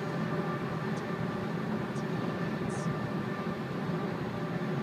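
Steady road and wind noise inside a Nissan Leaf electric car cruising at about 70 mph, with faint steady tones above it.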